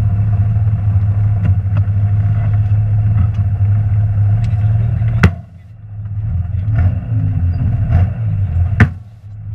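A rally car's engine running hard, heard from inside the cabin. Two sharp bangs, about halfway through and near the end, are each followed by a brief dip in the engine noise before it picks up again.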